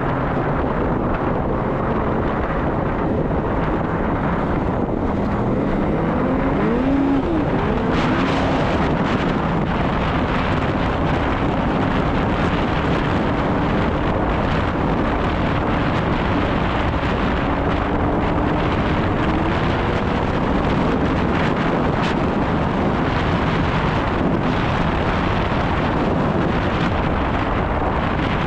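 Snowmobile engine running steadily under way, its pitch shifting up and down with the throttle a few seconds in, with wind noise on the microphone throughout.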